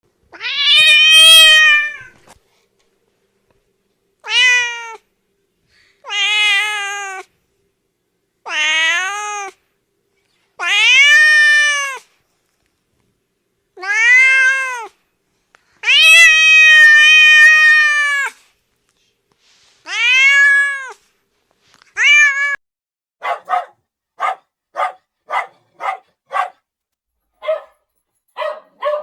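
Domestic cat meowing repeatedly: about nine drawn-out meows, each rising then falling in pitch, followed near the end by a quick series of short, clipped calls.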